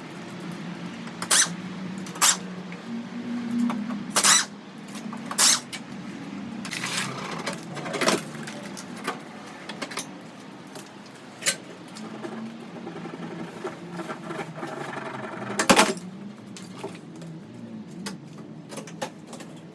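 Scattered sharp metal clanks and knocks from car-dismantling work, each one sudden and isolated, the loudest about three-quarters of the way in, over a steady low hum.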